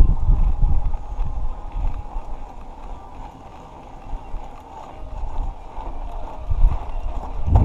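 Mountain bike riding down a dirt trail: wind buffeting the microphone over the rumble and rattle of the bike over rough ground, heaviest about the first second and again near the end.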